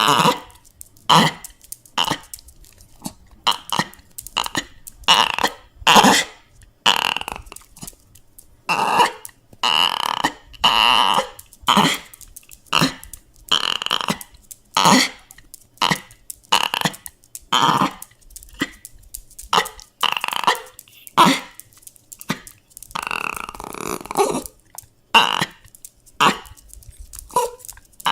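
A dog whining and crying in a long series of short, high whines about one a second, a few of them drawn out longer.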